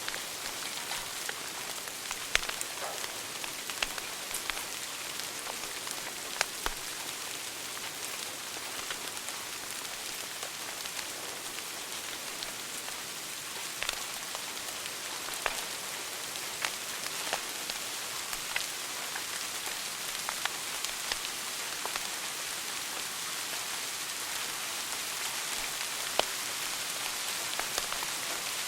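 Wood fire burning in a fireplace: a steady hiss with irregular crackles and an occasional sharper pop.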